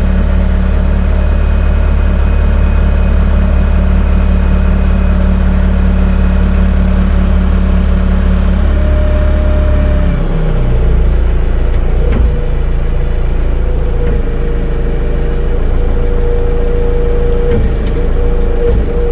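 Vehicle engine running in neutral with the brake set. About ten seconds in its note shifts and a steady whine joins it.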